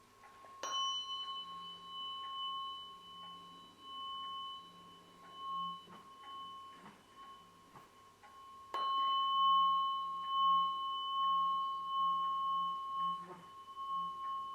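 A struck metal sound-healing instrument rings with a clear, long-sustained tone. It is struck twice, just under a second in and again about nine seconds in, with a slow wavering low tone beneath the ring.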